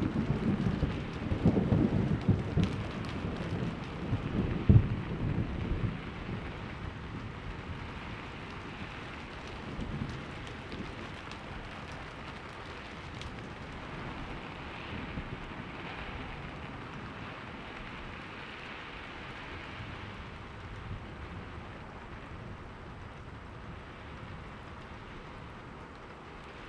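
Thunder rumbling over steady rain: the rumble is loudest at first, with a sharp crack about five seconds in, and dies away after about six seconds, leaving the even hiss of falling rain.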